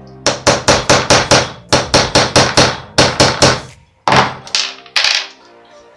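Hammer striking a screwdriver tip held as a punch against the metal axle tube of a toy horse. The rapid, sharp metallic taps come about five a second in short runs, with a brief pause near four seconds. The blows are peening the flared tube end to tighten the loose head and leg joint.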